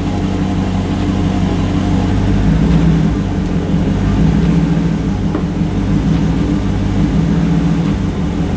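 2017 Dodge Challenger R/T's 5.7-litre Hemi V8 idling steadily.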